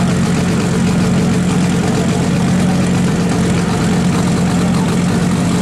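Mitsubishi Lancer Evolution IX's turbocharged four-cylinder engine idling loudly and steadily with a deep, even hum.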